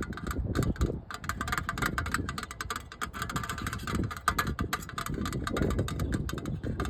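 Fast, dense tapping and scratching on a hard surface close to the microphone, many small clicks a second, over a low rumble of handling.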